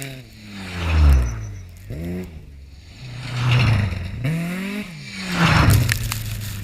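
Rally car engine revving hard, its pitch climbing and dropping back several times as the driver lifts and shifts. It is loudest about a second in and again near the end.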